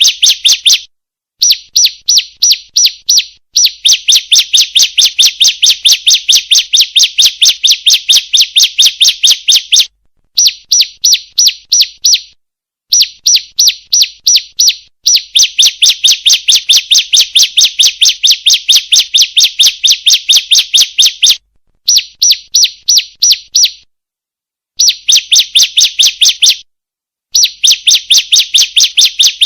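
Female bar-winged prinia (ciblek) calling: rapid, evenly repeated sharp chirps at about five a second, in runs of a few seconds broken by short pauses.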